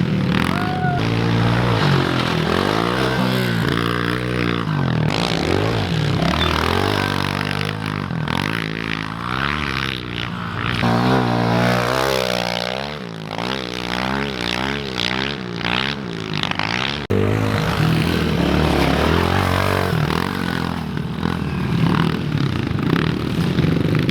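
Small four-stroke pit bike engines revving up and dropping back again and again, the pitch climbing and falling with throttle and gear changes as the bikes ride the dirt track.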